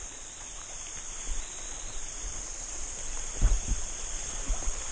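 Cicadas buzzing in a steady high-pitched chorus, with a few low thumps about three and a half seconds in.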